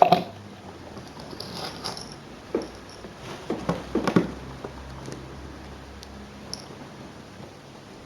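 Sharp mechanical clicks and knocks of small hard objects being handled, with a cluster of them about four seconds in, over a faint steady hum.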